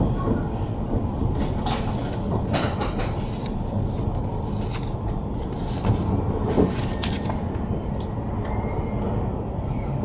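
Cabin noise inside an E5 series Shinkansen rolling out at low speed: a steady low rumble with scattered sharp clicks and knocks.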